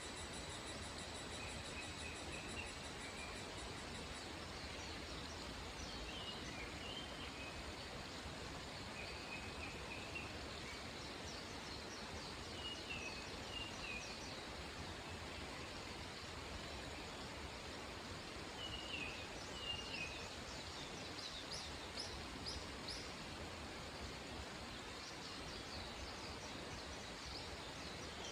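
Mountain forest ambience: small birds calling now and then in short chirps and trills over a steady background hiss, with a quick run of higher chirps about two-thirds of the way through. A steady high insect tone is heard in the first few seconds.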